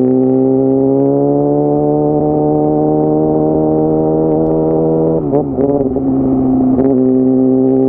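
Yamaha R6 inline-four engine running at high revs, its pitch climbing slowly and steadily. About two-thirds of the way through the pitch wavers and dips briefly, then settles back to a steady note.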